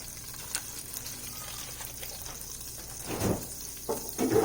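Butter sizzling steadily as it melts in a large pot, with a brief louder swell about three seconds in and a short knock near the end.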